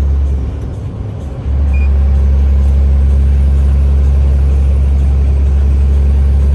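Semi truck's engine and road noise as a steady low drone inside the cab while driving; the drone dips for about a second near the start, then comes back at full strength.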